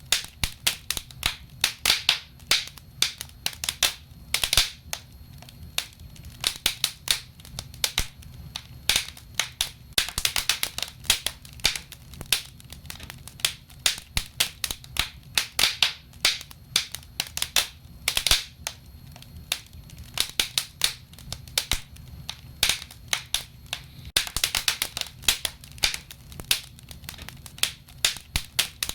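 Wood fire crackling in a fireplace: dense, irregular sharp pops and snaps, some in quick runs, over a low steady rumble.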